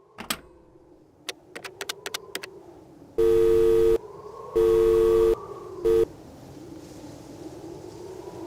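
A few sharp clicks, then a two-pitch telephone-style tone sounds twice for just under a second each, followed by a short third blip that cuts off; a faint low hum runs underneath.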